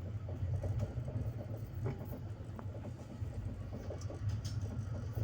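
Indian Railways electric locomotive humming steadily at a standstill, a low drone with a few faint clicks.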